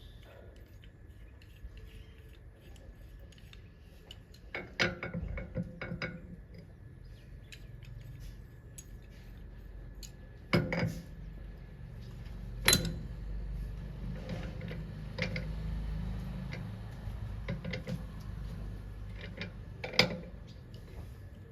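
Metallic clinks and clatter from handling an angle grinder and its disc during a wheel change. There are a few sharp knocks, about five of them, spread among lighter rattles.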